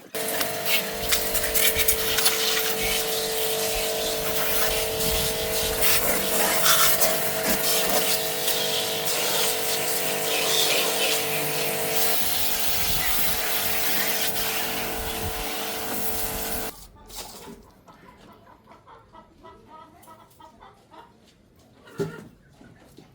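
A machine running loud and steady, a hiss with a constant hum under it. It cuts off abruptly about 17 seconds in, followed by faint clicks and one sharp knock near the end.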